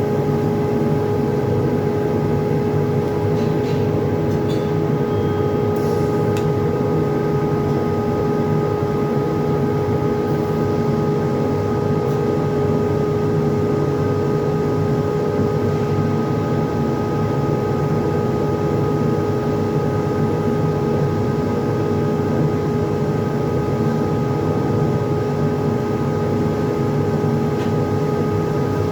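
Yaskawa robotic TIG welding cell running while welding tubes: a steady hum with one held mid-pitched tone and its overtones over a constant hiss.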